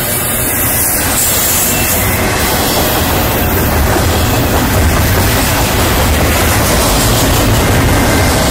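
Double-stack container freight train rolling past close by: a loud, steady rumble and clatter of steel wheels on the rails.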